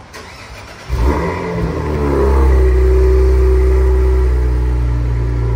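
2023 Cadillac CT4-V Blackwing's 3.6-litre twin-turbo V6 starting up about a second in, catching with a brief rise in revs, then settling into a steady idle.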